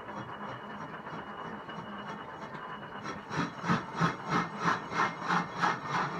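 Machine-shop background noise with a steady low hum; about halfway through, a run of about nine regular, loud strokes, roughly three a second, from hand or machine work on the job.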